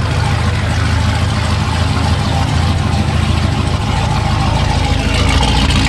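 Car engine idling with a loud, steady, deep rumble.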